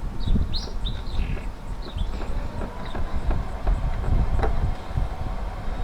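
Low, irregular rumble with small knocks, and birds chirping in short calls through the first couple of seconds.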